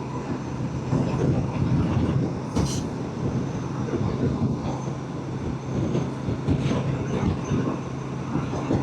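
Motorcycle engine running at a steady note, with rumbling noise around it.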